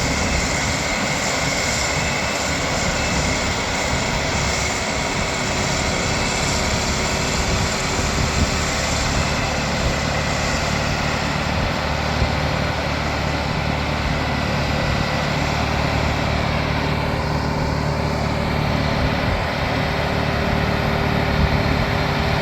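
TYM 654 tractor's diesel engine running steadily while driving a snowblower, with a constant rush from the blower.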